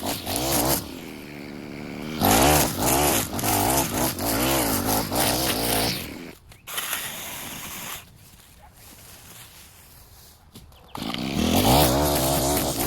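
Small petrol engine of yard-cutting equipment running, its pitch wavering as it works. It drops away briefly about a second in and again for a few seconds past the middle.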